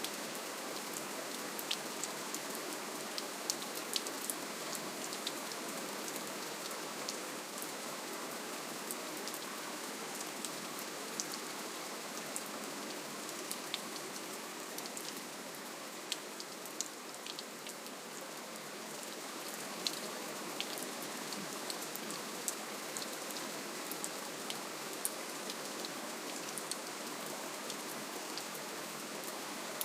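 Steady rainfall: an even hiss of rain with many separate drops ticking sharply on a surface.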